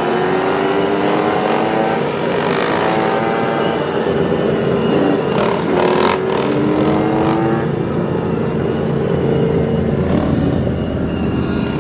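Motorcycle engines running and revving, their pitch climbing several times as they accelerate.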